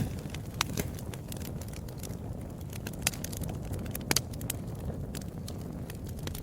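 Wood fire burning in a fireplace: irregular crackles and sharp pops over a steady low rumble, with a few louder pops, two of them close together about four seconds in.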